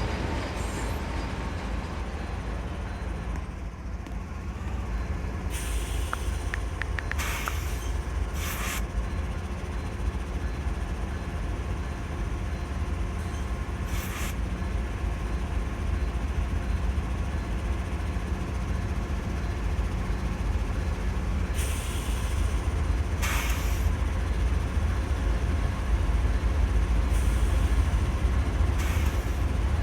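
A steady low rumble of a moving vehicle, with short hissing swells every few seconds.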